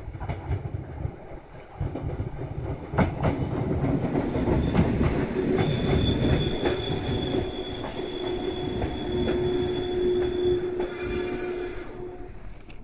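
A 115-series electric train pulls into the platform and brakes to a stop. Its wheels click over rail joints, then a steady high-pitched squeal sounds as it slows. A short high-pitched burst comes about a second before the end.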